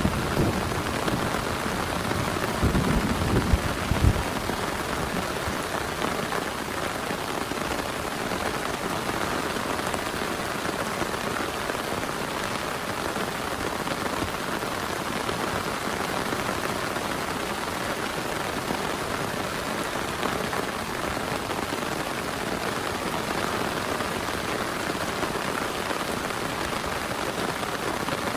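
Heavy rain falling steadily, a dense even hiss of drops. A low rumble in the first few seconds fades out.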